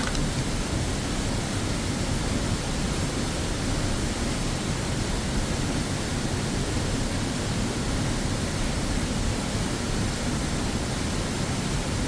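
Steady rushing of a waterfall, an even unbroken wash of falling water.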